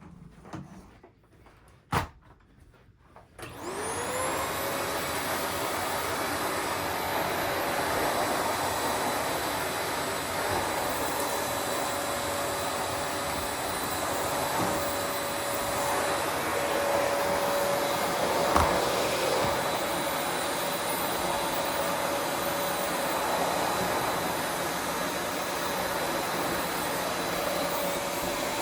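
Vacuum cleaner switched on after a sharp click: its motor whine rises as it spins up, then settles into steady running with loud suction noise. There is a single knock about two-thirds of the way through.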